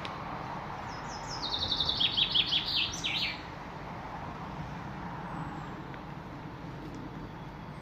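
A songbird sings one phrase of about two seconds: a quick run of short notes stepping down in pitch. Under it is a steady low background noise.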